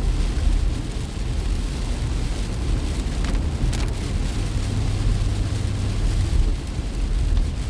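Steady low road and engine rumble of a car driving on wet roads in the rain, heard from inside the cabin.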